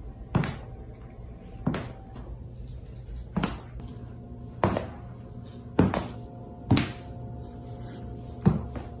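About eight sharp knocks or thuds at uneven intervals, one to two seconds apart, over a steady low hum.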